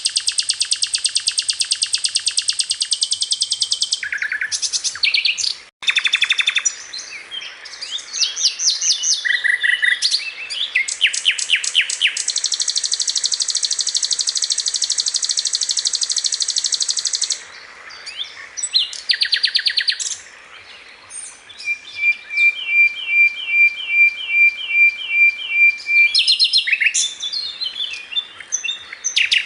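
Sikatan londo singing vigorously: long, very fast buzzing trills alternating with varied quick chirping phrases, and about nine evenly repeated notes near the end.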